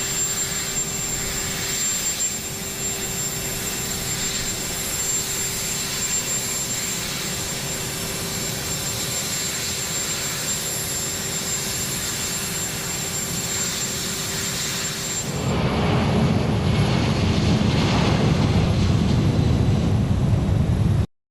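Aircraft turbine engines running steadily with a high constant whine. About fifteen seconds in it becomes a louder, deeper rumble, then cuts off suddenly near the end.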